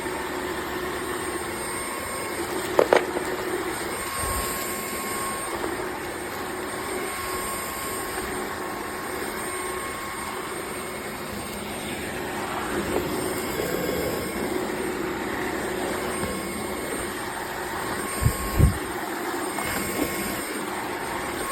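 Dreame H12S wet-dry vacuum's motor running steadily with a rush of air and a faint whine, broken by a couple of knocks near the start and a pair of thumps near the end.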